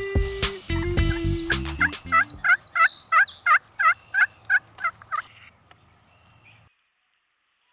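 Guitar music, then a fast run of about a dozen loud, evenly spaced wild turkey calls, about three a second, fading out before near silence near the end.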